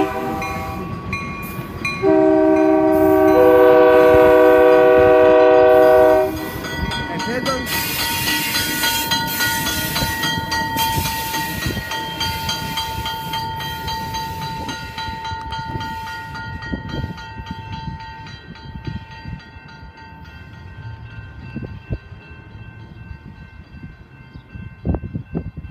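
Diesel locomotive horn sounding one long chord blast from about two seconds in to about six seconds in, then the passing train's engine and wheels on the rails, fading away as it leaves.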